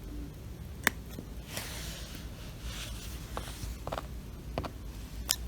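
A Java sparrow's small feet and beak tapping on tatami mats as it hops about: a scatter of light, sharp taps, the loudest about a second in, with soft rustling on the straw mat between them.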